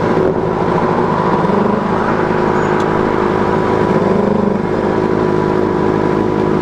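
Benelli TNT 600i's inline-four engine running through a Two Brothers exhaust while riding at fairly steady throttle, its note rising and falling a little about two seconds in and again about four seconds in.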